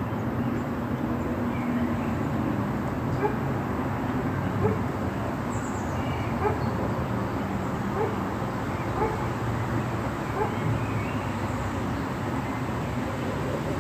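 Light rain falling: a steady hiss with scattered short drip ticks.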